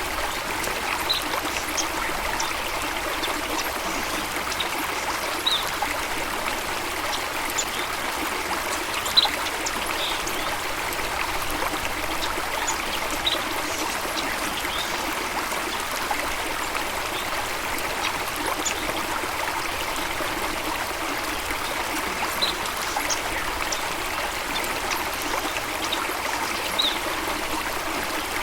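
Running water flowing steadily, with short high-pitched sounds scattered over it every second or two.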